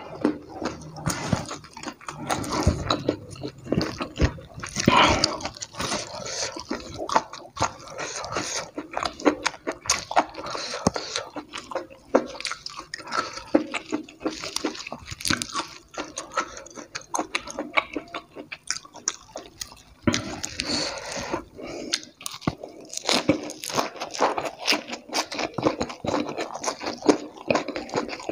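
Close-up eating sounds of a man chewing and biting food, with irregular, closely spaced crunching crackles as he eats crispy fried egg with raw lettuce.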